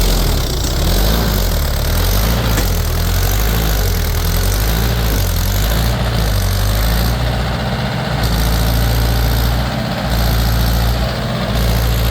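A heavy vehicle engine running loudly, its pitch shifting up and down in the first few seconds, then holding steadier with a few brief dips.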